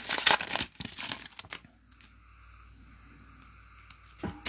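Foil trading-card pack wrapper crinkling and cards being handled in quick clicky rustles, dying away about a second and a half in to quiet room hum.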